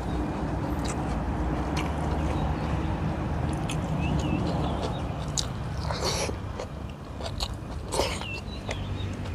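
Close-miked eating sounds: chewing with wet mouth clicks and smacks as a mouthful of rice, grilled eggplant salad and dried milkfish is eaten by hand, with two louder smacks about six and eight seconds in.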